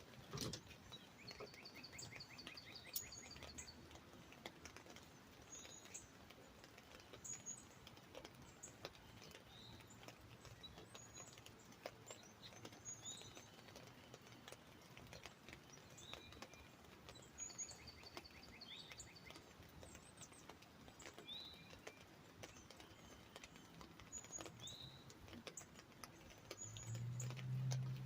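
Faint songbirds calling: short rapid trills and slurred whistled notes repeat every few seconds, over scattered light drips tapping on an umbrella. A low hum comes in near the end.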